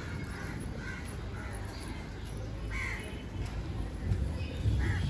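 Several short bird caws over a steady low background rumble.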